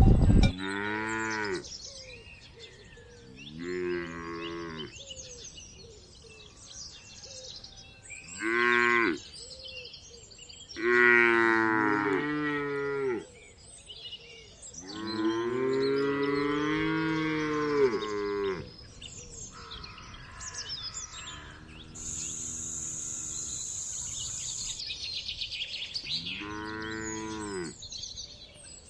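Cows mooing, about eight separate calls of varying length, the longest drawn out for about three and a half seconds near the middle of the run.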